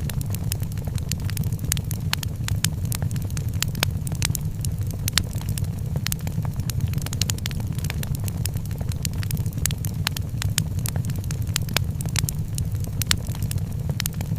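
Wood fire crackling in a fireplace, with frequent sharp, irregular pops and snaps over a steady low rumble.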